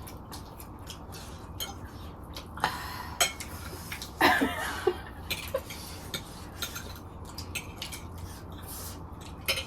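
Cutlery and dishes clinking as people eat: scattered light clicks and scrapes against plates, with a couple of brief louder rustles about three and four and a half seconds in.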